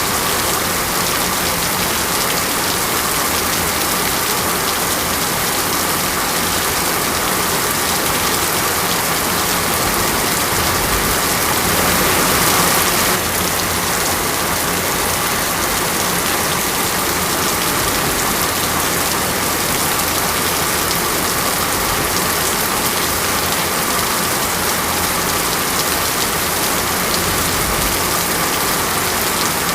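Heavy rain falling steadily on a surface, a dense even hiss of drops that swells briefly about halfway through.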